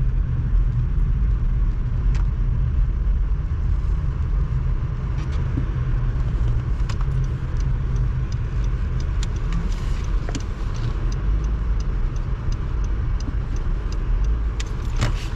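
Road noise heard from inside a moving car on a snowy road: a steady low rumble of engine and tyres, with scattered light clicks through the second half.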